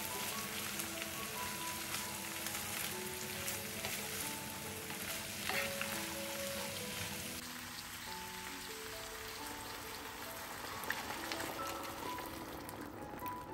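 Beans and diced vegetables sizzling in olive oil in a pan, stirred with a wooden spoon that gives a few soft scrapes and clicks. The sizzle eases about halfway through. Soft background music plays.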